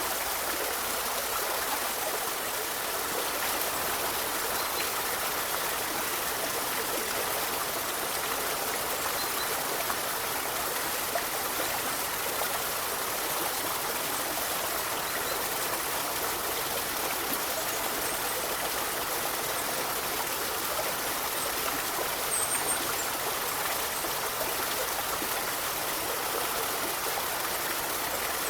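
A river flowing steadily, a constant even rush of water. A brief faint high chirp comes about two-thirds of the way through.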